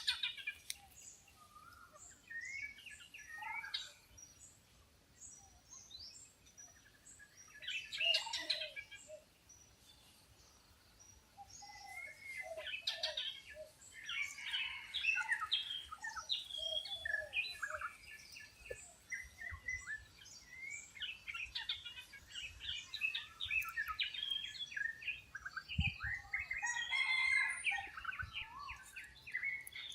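Several wild birds chirping and calling over each other in a busy chorus of short whistles and chirps, coming in bursts with a brief lull about ten seconds in.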